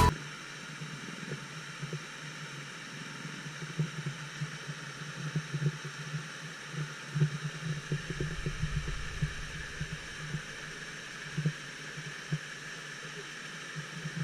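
Small motor scooter engine running steadily under way, with road and wind noise and a few light knocks from bumps.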